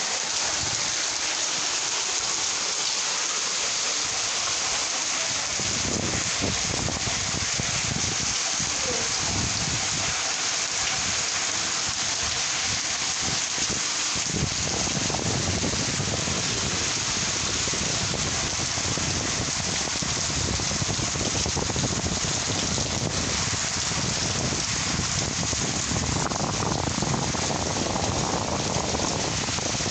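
Storm rain falling steadily, a dense, even hiss, with a low rumble that comes and goes underneath from about six seconds in.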